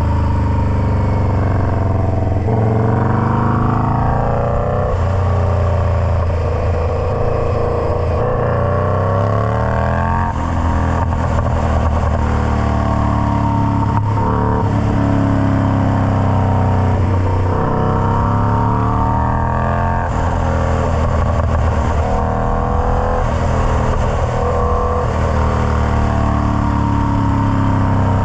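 Indian Scout Bobber V-twin running through a Freedom Performance Combat 2-into-1 exhaust, the engine note climbing in pitch and dropping back again several times as it is revved and eased off.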